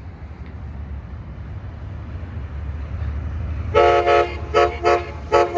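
Approaching Amtrak San Joaquin passenger train, its low rumble building steadily. About four seconds in, the horn on the leading cab car sounds a quick run of short, loud blasts, the last one still going at the end.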